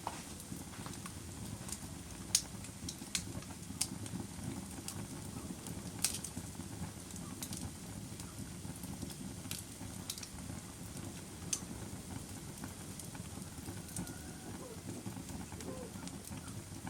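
Campfire burning: a steady low rush of flames with sharp wood crackles and pops at irregular intervals, a few louder than the rest.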